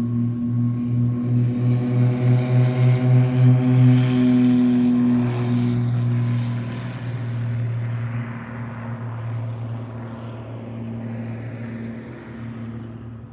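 Propeller airplane passing by: a droning engine-and-propeller hum that pulses in level, grows loudest about four seconds in, drops slightly in pitch as it goes past, then fades away.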